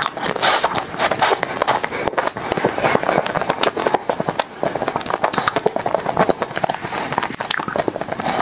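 Close-miked biting into a frozen white ice cream bar on a stick, then chewing it, with a dense run of crunchy crackling clicks.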